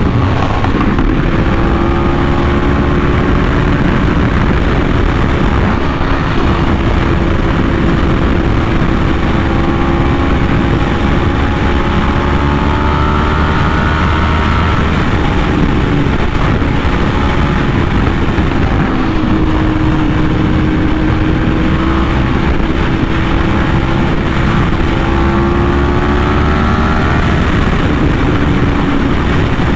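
Yamaha R1M sportbike's crossplane inline-four running through an SC Project aftermarket exhaust while riding, its pitch rising and falling gently with the throttle, over a steady rush of noise.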